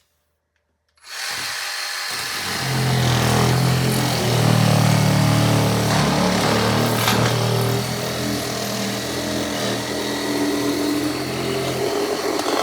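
Reciprocating saw (Sawzall) starting about a second in and running steadily, its long blade cutting through foam board; it grows louder about three seconds in and stops right at the end.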